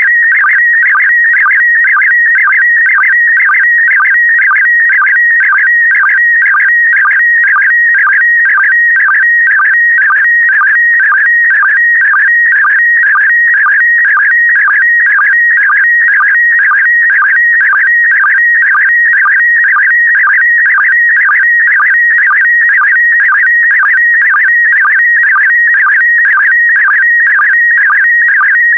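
PD120 slow-scan television (SSTV) image signal: a loud, steady, warbling tone around 2 kHz, carrying picture lines, broken by a short lower sync pulse about twice a second.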